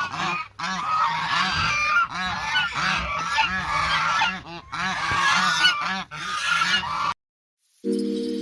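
A flock of waterfowl honking and calling all at once, many overlapping calls, cutting off suddenly about seven seconds in. Shortly after, steady held music tones begin.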